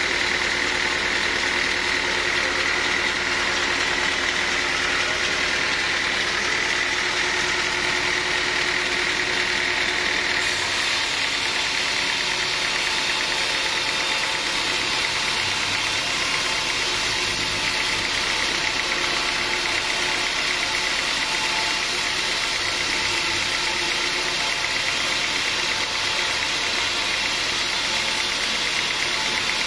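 Sawmill machinery running steadily, an engine-like drone whose sound changes abruptly about ten seconds in.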